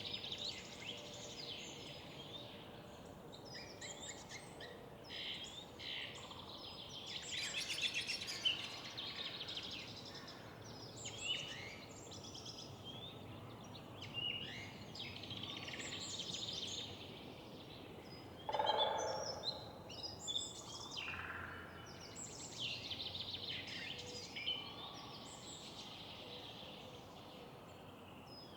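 Several songbirds singing and chirping, their calls overlapping throughout, over a steady low background noise. About 18 seconds in comes a louder, lower-pitched call.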